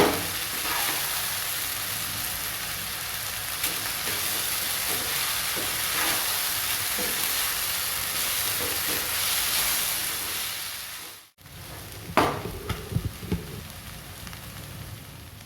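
Vegetable fried rice sizzling in a hot pan with the scrape and clatter of a spatula stirring it. The sound cuts off about eleven seconds in, and after it a few sharp clinks of utensils sound over a fainter sizzle.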